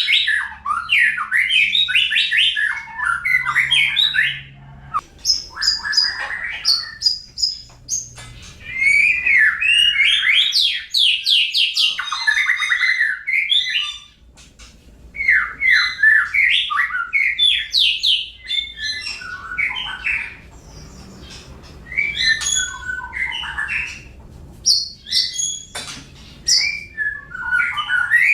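A songbird singing in long, fast, varied bouts of chirps and warbling notes, with short pauses between bouts.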